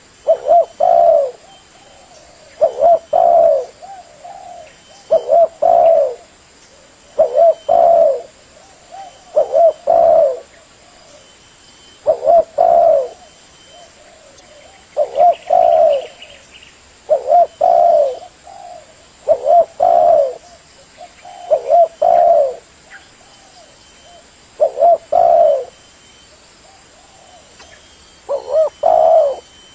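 Spotted dove (tekukur) cooing: the same short phrase of low hooting notes repeated about every two seconds.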